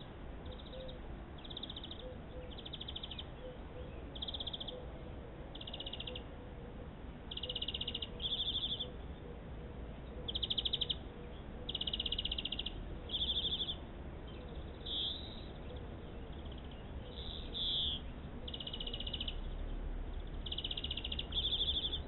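A bird calling in short buzzy phrases, one every second or two. A faint low note repeats evenly underneath through the first half.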